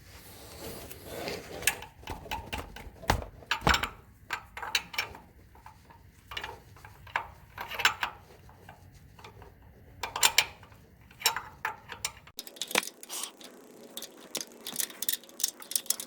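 Irregular clicks and clinks of small metal parts and hand tools being handled and set down.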